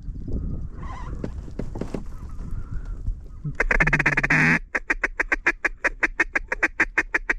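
Mallard duck call blown hard: one long loud note, then an even run of short quacks at about six or seven a second. Fainter goose honking comes before it.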